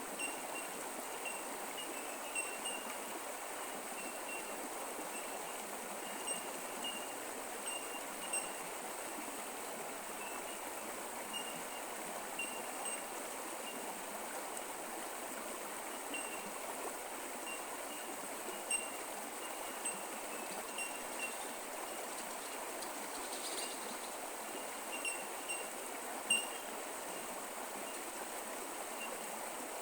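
Australian bush creek running steadily, with short, faint, high chime-like notes dotted irregularly through it.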